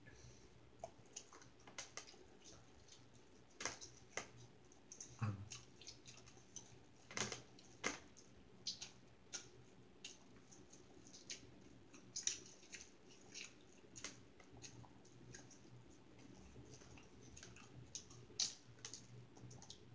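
Faint chewing of a person eating, with irregular soft mouth clicks and smacks scattered through.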